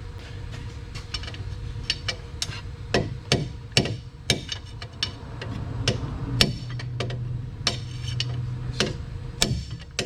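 Hammer tapping on steel, about a dozen sharp, irregular strikes, trying to knock a stuck pin or piece of key stock loose.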